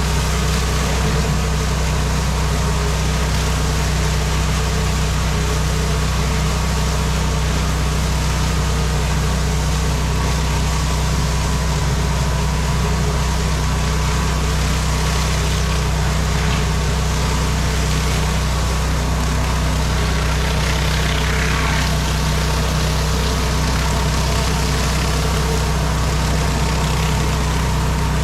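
Pressure washer engine running steadily under load, with an even hiss laid over its hum.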